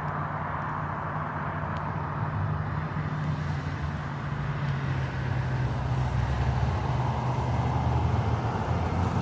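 A motor vehicle's engine running steadily with a low hum, growing louder about five seconds in.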